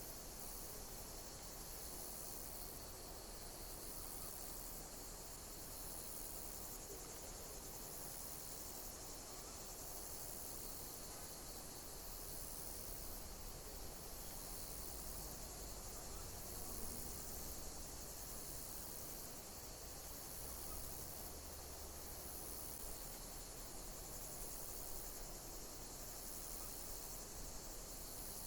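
Insects chirping steadily over a high hiss, with a high-pitched pulsing call repeating every second or so.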